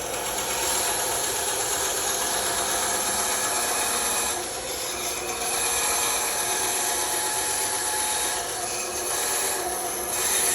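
Bandsaw running and cutting through a wooden workpiece, a steady sawing sound with brief dips in loudness about four and a half and nine seconds in.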